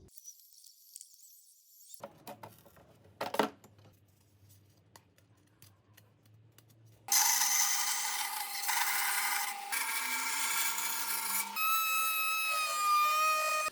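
Woodworking shop sounds: a few light taps and a knock, then from about halfway a loud power tool working wood in several short cuts, ending with a steady motor whine.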